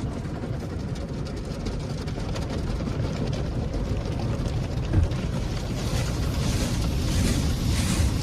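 Steady low vehicle rumble, with a hissing noise building over the last two seconds.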